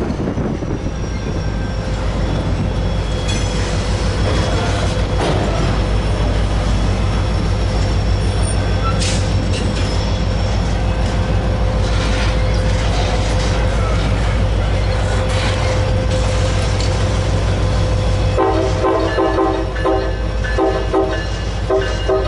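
A train running past with a steady heavy rumble of engine and wheels. About eighteen seconds in, a multi-tone train horn starts sounding in several blasts.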